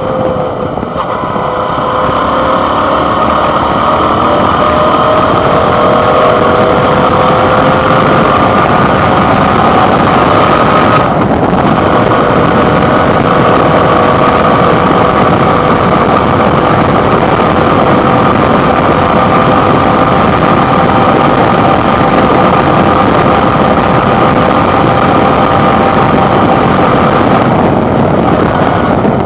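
Suzuki DL650 V-Strom's 645 cc V-twin engine running under way, heard from a handlebar-mounted microphone, loud and steady. Its pitch sags a little near the start and then climbs slowly, with a short break about a third of the way through before it holds level.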